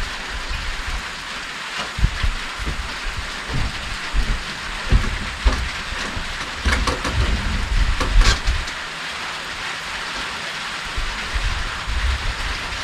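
Steady hiss of rain falling, with irregular low thumps and a cluster of sharp taps about two-thirds of the way through.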